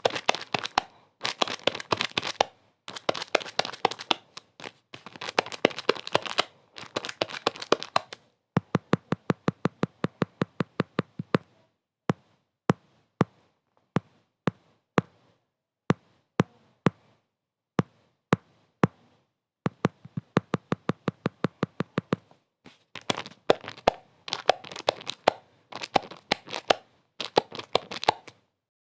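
Crackling, crinkling noise in dense bursts about a second long, giving way about a third of the way in to a quick run of sharp clicks, then scattered single clicks about one a second, before the dense crackling bursts return near the end.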